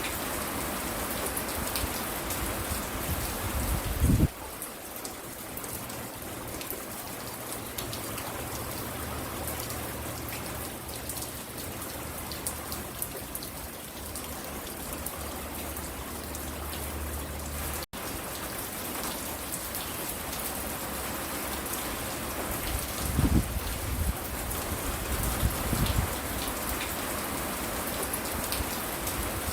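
Steady rain falling and pattering on the porch and nearby surfaces, with brief low rumbles near the start and again about three quarters of the way through. The sound changes abruptly about four seconds in and drops out for an instant a little past the middle, where the recording is spliced.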